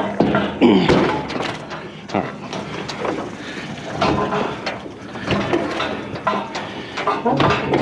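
Irregular knocks, clanks and scraping as heavy scrap items are shoved over a trailer's lip and shifted into place.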